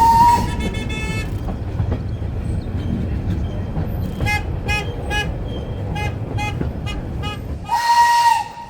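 Heritage train running with a steady low rumble while its whistle sounds: a long note ending just after the start, a string of about eight short toots in the middle, then a loud, hissing whistle blast near the end.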